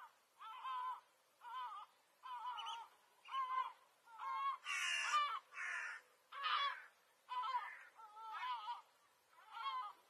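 Harsh, caw-like bird calls repeating about once a second, each with a wavering pitch. A louder, rougher run of calls comes around the middle.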